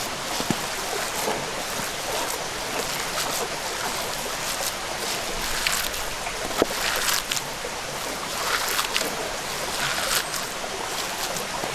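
Steady rushing noise like flowing water, with scattered small clicks and two louder rustling stretches, about six and nine seconds in.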